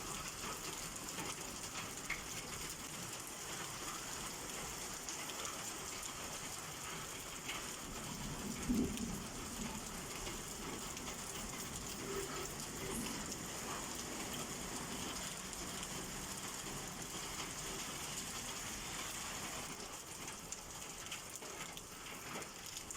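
Steady rain falling and pattering on surfaces during a summer downpour, with one brief low thump about nine seconds in.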